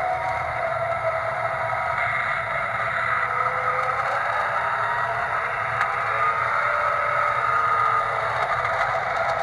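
MTH O-gauge model NW2 switcher and R17 subway work train running: steady mechanical running with faint gliding whine and light scraping and clatter from the model's drive and wheels on track.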